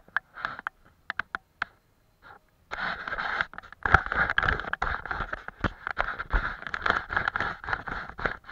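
Close-miked scratching of a painting tool working over paper: a few separate short strokes and taps, then from about three seconds in a steady run of quick, scratchy strokes.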